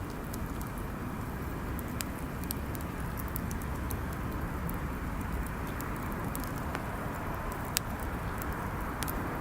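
Wood bonfire burning, with scattered sharp crackles and pops over a steady low rumble; one pop near the end is louder than the rest.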